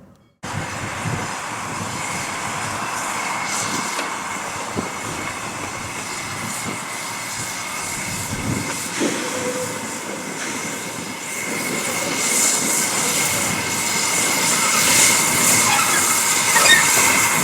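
A train running along the track: steady rolling noise with a thin high squeal, growing louder and hissier in the second half.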